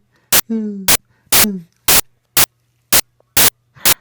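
A three-month-old baby lets out one drawn-out coo that falls in pitch, about half a second in. Sharp static crackles, about two a second, cut through a steady low hum.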